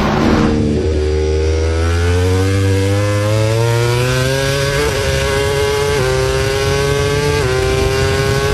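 Motorcycle engine accelerating hard through the gears: the engine note climbs steadily from about a second in, then drops sharply at three upshifts and climbs again after each.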